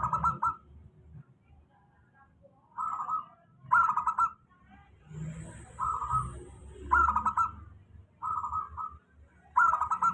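Zebra dove (perkutut) cooing: six short, rolling coo phrases, one every second or so.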